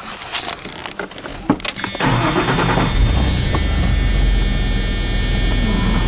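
A few clicks, then about two seconds in a loud, steady hiss and hum comes on suddenly: the pickup's cab radio being switched on.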